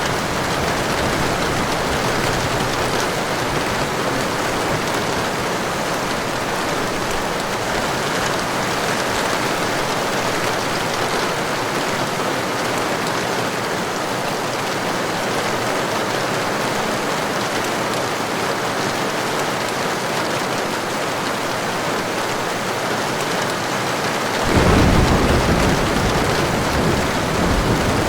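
Heavy rain falling steadily as an even hiss. About three seconds before the end, a rumble of thunder comes in suddenly and is the loudest sound.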